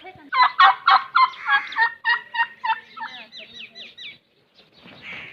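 A bird calling loudly in a rapid series of short repeated notes, about four or five a second, for roughly four seconds. It breaks off, then fainter calls start again near the end.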